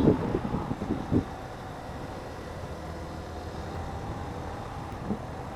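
Motorcycle running steadily while riding, with engine and wind noise on the microphone.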